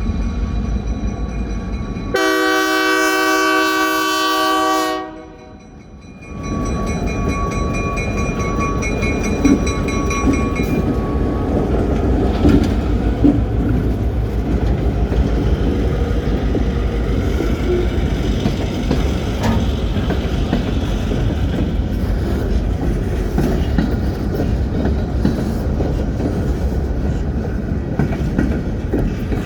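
A train's horn sounds one loud blast of about three seconds, about two seconds in, then cuts off. It is followed by the steady rumble of a train rolling past, with clicks from the wheels on the rail joints.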